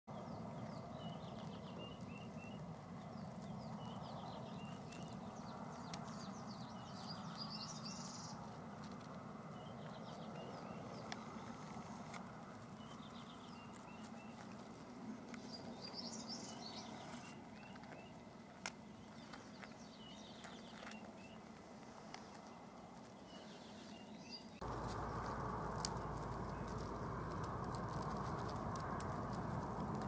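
Outdoor ambience: small birds chirping in short repeated calls over a steady background hiss. About 25 seconds in, the background noise suddenly becomes louder, with more low rumble.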